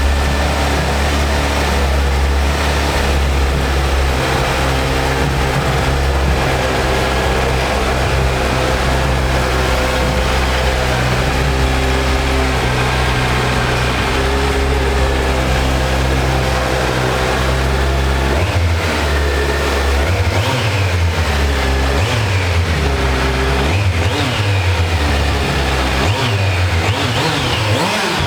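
Motorcycle engine running at a steady idle, then revved in repeated throttle blips, rising and falling every couple of seconds, from about two-thirds of the way through.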